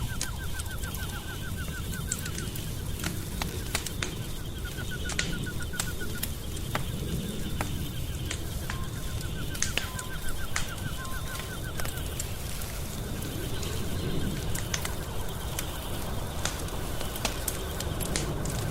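Wood fire in a fireplace crackling: a steady low rumble of flames with many sharp, irregular pops and snaps. A rapid, even chirping trill, like a cricket or insect, comes in three short runs in the first half.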